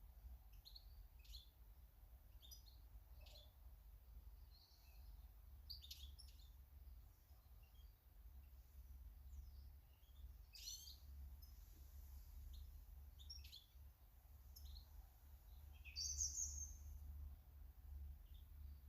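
Faint garden birds chirping, with short high calls scattered irregularly and one louder call about sixteen seconds in, over a steady low rumble.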